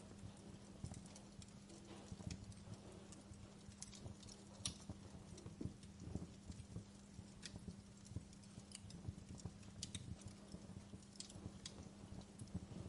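Wood fire crackling, with irregular soft pops and snaps, over a low steady drone.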